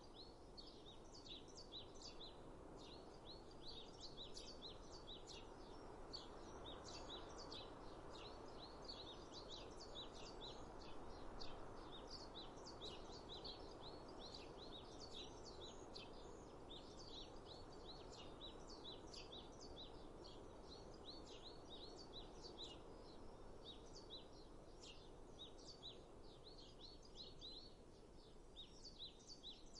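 Many small birds chirping in a dense, continuous chorus of short, high calls, over a faint, steady rushing background.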